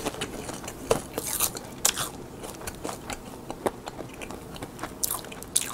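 Close-up chewing of crisp roasted seasoned seaweed (gim): irregular dry crunches and crackles as the sheets break between the teeth, a few louder than the rest.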